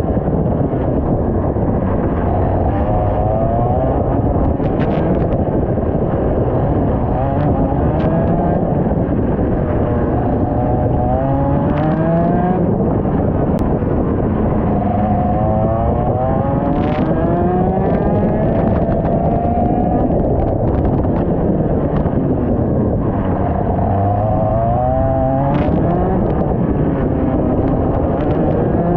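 IAME X30 125cc two-stroke kart engine at racing revs, its pitch climbing for a few seconds and then dropping, several times over, as it accelerates and slows through a lap. A heavy rushing noise on the onboard camera's microphone half buries it.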